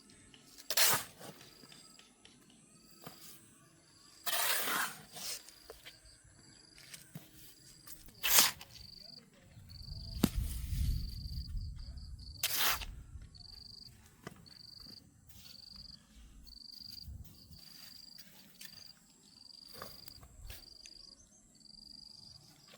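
An insect chirping in a steady rhythm, about once a second, with several sharp knocks and a brief scraping sound from work going on close by.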